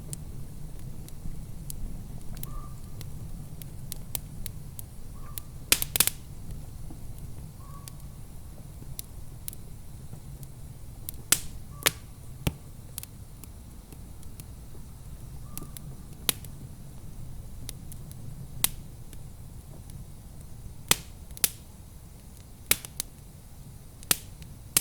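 Wood fire crackling in a fireplace: irregular sharp pops and snaps, a few of them loud, over a low steady rumble.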